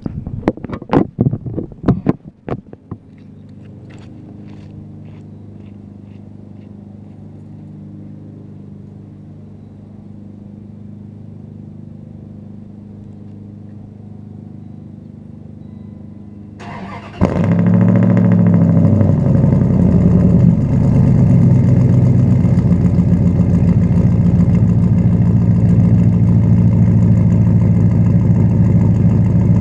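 1998 Dodge Ram 1500's 360 V8, on pacesetter shorty headers and an uncatted true-dual 2.5-inch exhaust with Flowtech glasspacks, starting from cold about seventeen seconds in and settling into a loud, steady idle. Before it starts there are several knocks and then a quieter steady hum.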